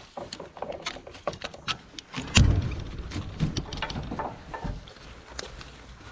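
Irregular clicks, clanks and knocks of gear being handled, with one heavy thump about two and a half seconds in.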